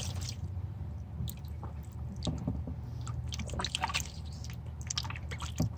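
Ducklings splashing and dabbling for peas in a shallow tub of water: scattered small splashes and drips at an irregular pace of a few a second.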